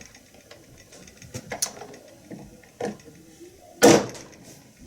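Plastic clicks and knocks from a toy tow truck's tire being pushed back onto its wheel, with a few light knocks and one loud knock about four seconds in.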